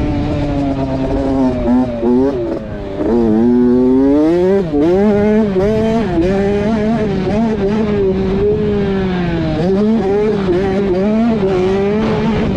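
Motocross bike engine revving hard under the rider, its pitch climbing under throttle and dropping sharply several times as he shifts or rolls off, over wind rush.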